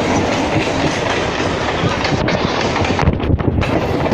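Electric suburban local train running at speed, heard from on board, its wheels clattering over the rail joints. About three seconds in, the sound turns duller and deeper for about half a second.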